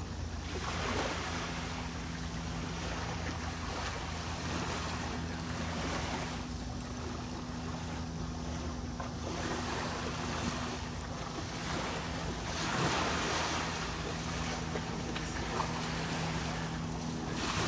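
Ocean surf washing ashore, the noise of the breaking waves swelling and fading every few seconds, with a steady low hum underneath.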